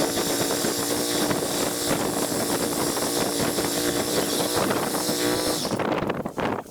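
Canycom Hey Masao CMX2202 ride-on mower's engine running at a steady speed, with a loud hiss over it that cuts off suddenly near the end.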